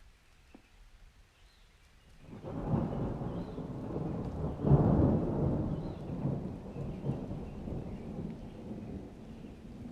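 A thunder rumble rolling in about two seconds in, swelling to its loudest near the middle and then rumbling on unevenly as it slowly fades.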